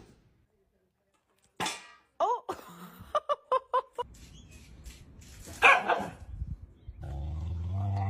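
Dog barking and yipping: a bark, then a quick run of about five short high yips, then another loud bark near the end.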